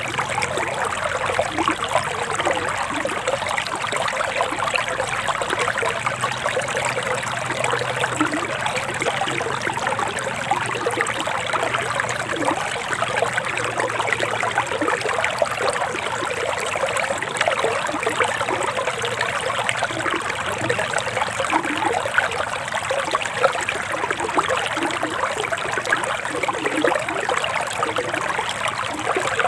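Forest river water flowing and trickling steadily over stones, an even, unbroken babble.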